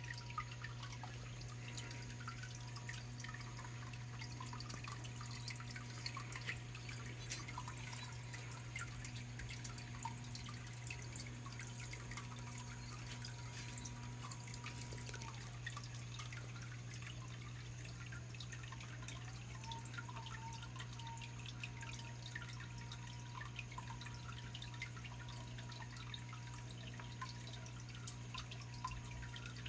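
Small waterfall in a biotope pond, water trickling and dripping steadily, with a steady low hum underneath.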